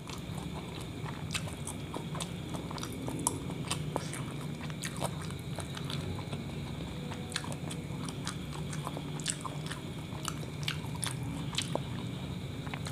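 Close-up chewing of a kebab wrap filled with meat, egg, vegetables and sauces: many small irregular wet mouth clicks and soft crunches.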